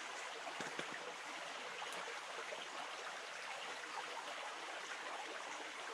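Small river babbling steadily over stones, an even rushing water sound, with a faint knock or two just under a second in.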